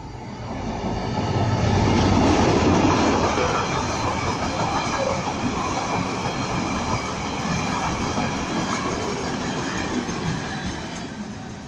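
Diesel locomotive hauling a train of hopper wagons past at speed. The locomotive's engine comes past about two seconds in. Then comes a steady rumble and clatter of wagon wheels on the rails, with a thin high squeal over it, easing off near the end.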